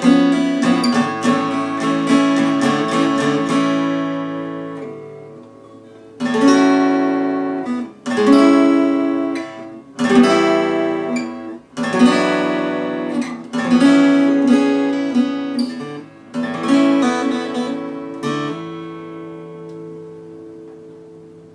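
Acoustic guitar playing the closing chords of a song without singing: a run of strumming, then single chords struck about every two seconds, the last one left to ring out and fade away.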